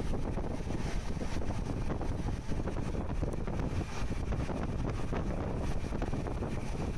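Passenger train running at speed, heard from beside an open window: a steady low rumble with wind buffeting the microphone.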